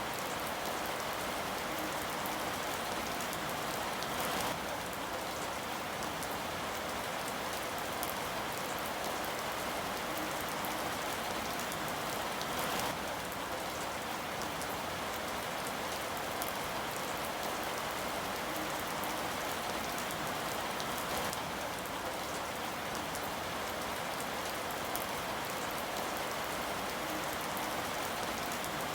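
Steady rain falling, an even hiss of drops with a few slightly louder drops now and then.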